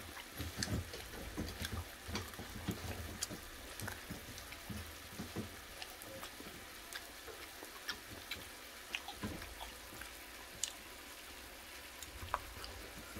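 Faint, irregular wet clicks and smacks of a man chewing a mouthful of marinated pork ribs.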